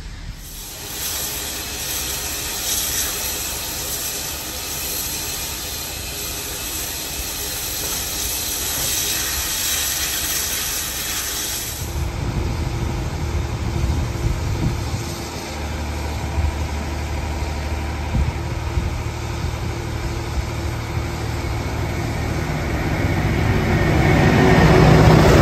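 A steady hiss beside the 3801 heritage train's carriages. About twelve seconds in it gives way to a diesel freight train led by 82 class locomotive 8255 approaching, its engine's low rumble growing louder towards the end.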